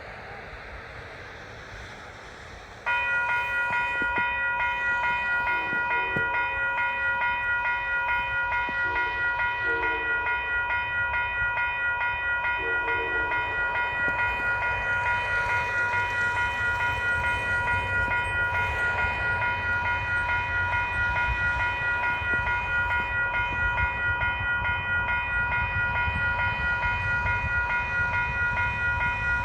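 Railroad crossing warning bell ringing with a rapid, steady pulse, starting suddenly about three seconds in, over the low rumble of a train.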